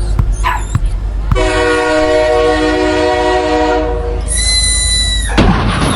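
Train horn sounding one long, steady chord for about two and a half seconds over a low rumble, followed by a high, steady squeal lasting about a second and a short burst of noise near the end. A dog yelps a couple of times in the first second.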